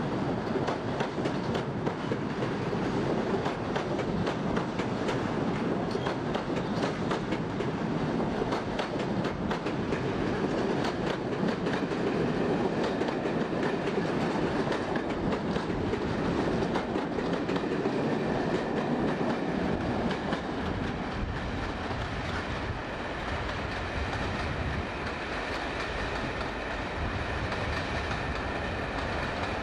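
British Rail loco-hauled passenger coaches rolling slowly past, their wheels clicking over rail joints and pointwork. After about twenty seconds the clicking thins out into a quieter, steadier rumble with a faint high whine.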